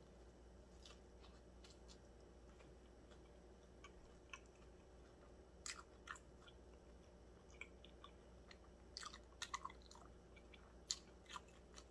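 Faint chewing of a steak and cheese sub, with soft wet mouth clicks and smacks, a few louder ones about six seconds in and again between nine and eleven seconds.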